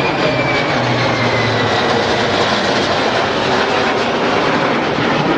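KC-130J Hercules tanker and its jet formation of Hornets and Harriers flying past: a loud, steady roar with a high whine that slowly falls in pitch.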